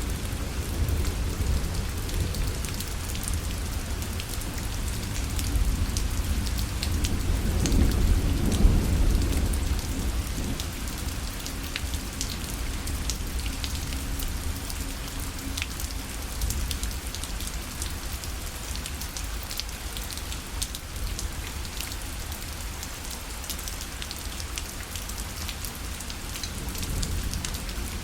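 Steady rain falling on a fabric parasol, a dense patter of drops. A low rumble swells and fades about eight seconds in.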